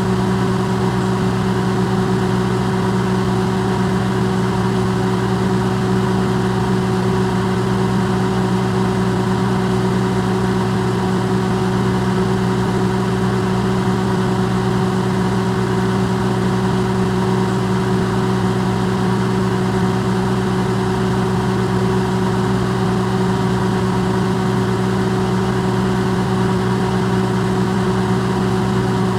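Electrolux microwave oven running, recorded close and amplified: a steady, unchanging hum with a low drone and a few fixed higher tones over a soft hiss.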